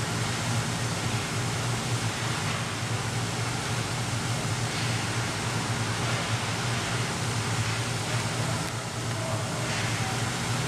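Ice hockey rink ambience: a steady low hum under an even wash of noise, with a few faint brief swells.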